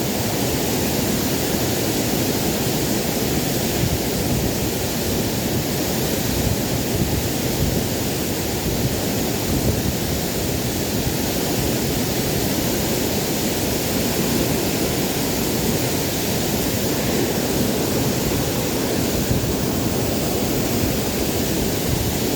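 Steady rush of a waterfall, an even wash of falling water with no breaks.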